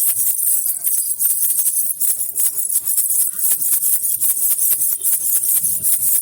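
Baby rattle (jhunjhuna) with small bells shaken continuously: a rapid, unbroken jingling rattle of many quick strokes, bright and high-pitched.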